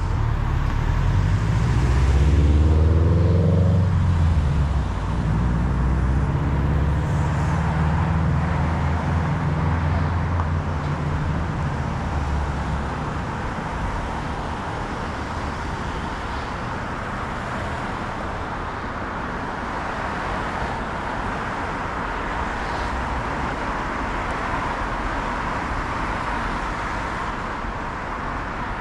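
A motor vehicle passing close by, its engine note rising about two to four seconds in and fading out by about thirteen seconds. Underneath runs a steady rushing road-and-wind noise, heard while riding a bicycle.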